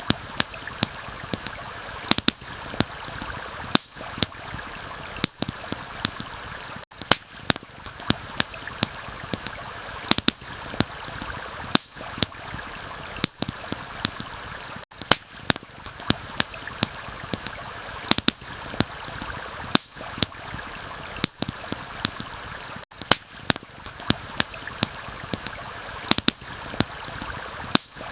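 Steady rushing of a stream, with sharp crackles and pops from a wood campfire, several in quick succession at times.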